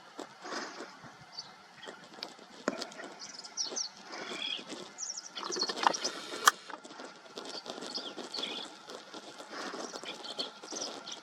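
Rustling and scratching in dry brush and leaf litter, typical of a green-tailed towhee foraging, with scattered short, high chirps. A single sharp click about six and a half seconds in is the loudest sound.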